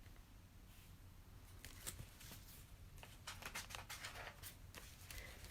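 Faint paper rustling and light clicks from a picture book's pages being handled and turned.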